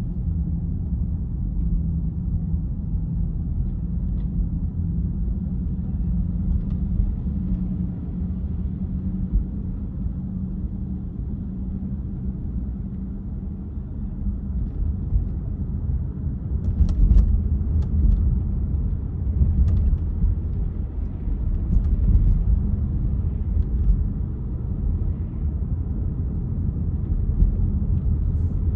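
Car driving on city streets: a steady low rumble of engine and tyre noise that grows louder about halfway through, with a few faint clicks.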